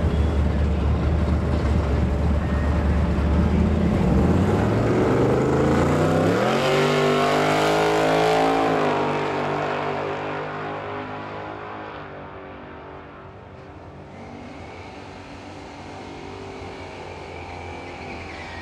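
Two V8s, a Ford SVT Lightning pickup's and an LS1 Camaro's, run at the start line in a steady low rumble. About four seconds in they rev up in a rising climb as the vehicles launch, loudest around eight seconds. The sound then fades away as they run off down the strip.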